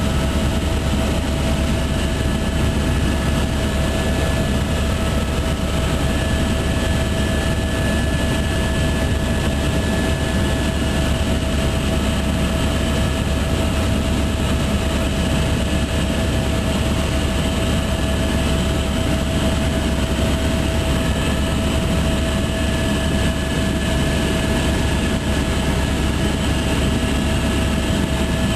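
Helicopter turbine and rotor noise heard from inside the cabin: a loud, steady drone with a deep rumble and a constant high whine.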